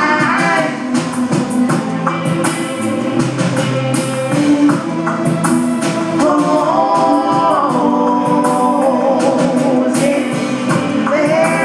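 Live electronic music with a sung lead vocal over a driving beat, the voice sliding down in pitch on one long note partway through.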